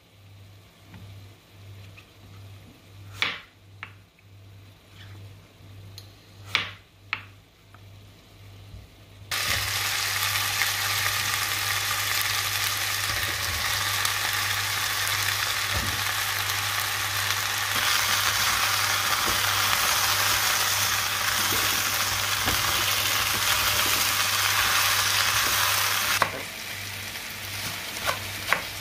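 A chef's knife chopping zucchini on a wooden cutting board, a few sharp strikes. From about nine seconds in, zucchini, potato and carrot chunks sizzle in hot oil in a steel pot: a loud steady frying hiss that starts and stops suddenly after about seventeen seconds. Near the end come quick knife chops through spring onions on the board.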